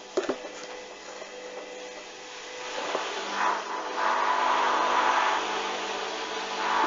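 Hoover washing machine on a duvet wash: the motor hums steadily while the drum turns and the wet load swishes in swells that build from about halfway through, with a couple of sharp knocks near the start.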